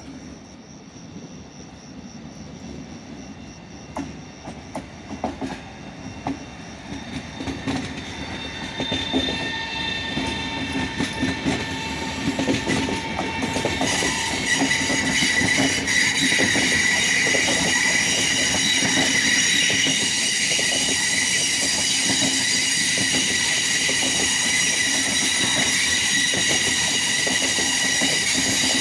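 Passenger train approaching and passing through the station, its wheels clicking over rail joints and growing louder. About halfway in a steady high-pitched squeal sets in and holds as the train draws alongside.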